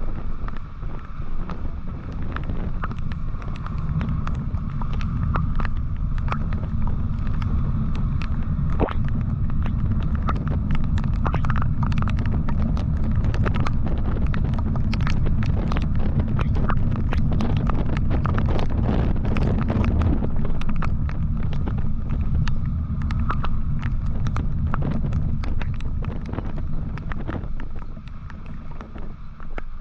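Riding noise from a moving motorcycle: a heavy low rumble of wind on the microphone over engine and road noise, with constant crackles of buffeting. It builds over the first few seconds and eases off near the end as the bike slows.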